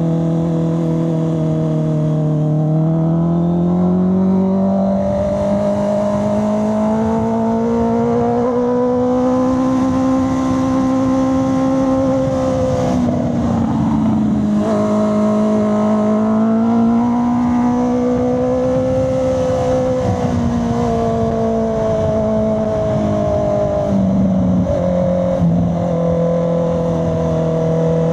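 Honda CB650R's inline-four engine and exhaust under way, the engine note climbing slowly as the bike pulls, dipping briefly about halfway through, rising again and settling lower near the end. Road and wind noise run underneath.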